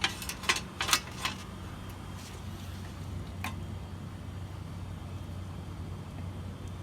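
A few short, sharp clicks of hand tools working under the hood in the first second and a half, and one more a couple of seconds later, over a steady low hum.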